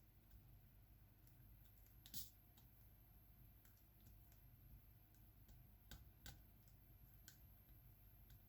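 Faint, scattered clicks of diamond painting: a drill pen picking up small resin drills and pressing them onto the adhesive canvas, the sharpest click about two seconds in.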